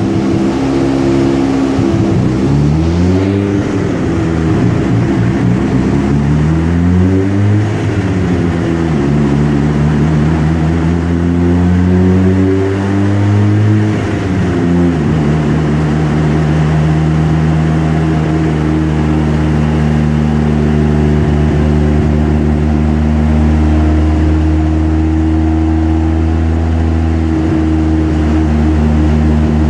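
Mazda RX-7 FD's 13B-REW twin-rotor engine, converted to non-sequential twin turbos, revved up and down three times, the third climb longer and ending in a sudden drop, then running steadily at one speed for the second half.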